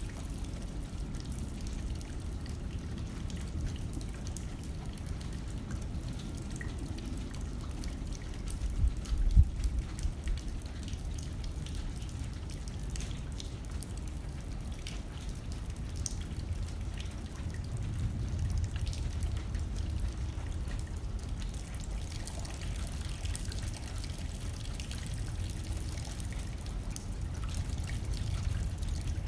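Steady rain pattering against a window, with a low rumble of wind underneath and one brief louder low surge about nine seconds in.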